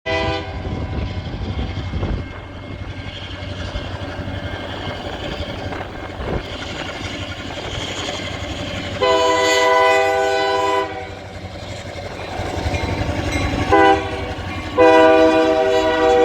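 Freight train led by an EMD GP38-2 diesel locomotive, its engine rumbling low as it nears a road crossing. The air horn sounds a brief blast at the start, then a long blast, a long blast, a short one and a long one: the standard grade-crossing signal.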